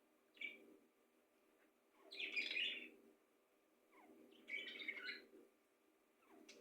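Pet bird chirping in three short bouts, the loudest about two seconds in, with quiet gaps between.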